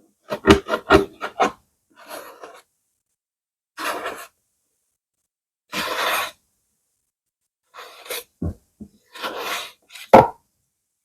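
Close-miked ASMR hand sounds: a quick run of about five taps, then short separate rustles about every two seconds, with a sharp knock near the end.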